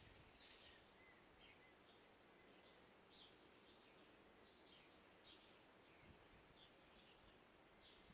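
Birds singing faintly: many short, high chirps and calls at irregular intervals over a faint steady hiss.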